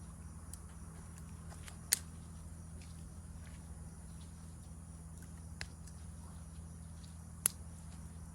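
Wood campfire crackling with a few sharp pops, the loudest about two seconds in and near the end, over a steady high insect drone.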